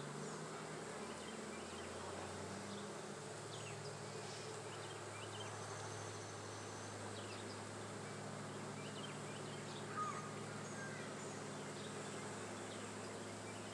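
Honey bees from a swarm colony buzzing around an opened hive: a steady drone made of several wavering pitches.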